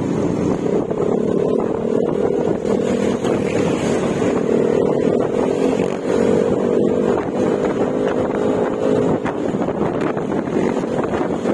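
Yamaha Mio Gravis scooter's 125 cc single-cylinder engine running at a steady cruise through an Akrapovic exhaust with silencer, a continuous drone that climbs slightly in pitch in the first few seconds and eases a little near the end.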